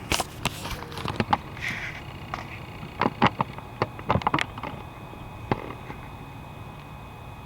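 A quick irregular series of sharp clicks and knocks over a steady low hum, the clicks stopping about five and a half seconds in.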